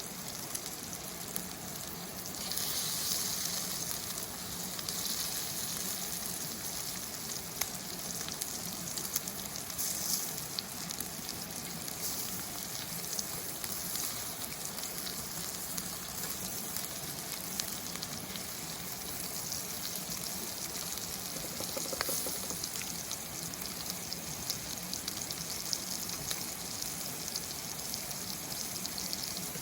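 Food sizzling in hot oil in a pan over a campfire, with scattered small pops. The sizzle gets louder about two and a half seconds in, then runs on steadily.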